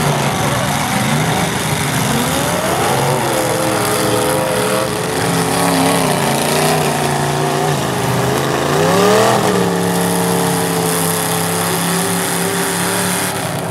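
Several demolition derby car engines revving as the cars drive and ram each other, their pitch rising and falling; one engine climbs steeply about nine seconds in and then holds a steady high rev.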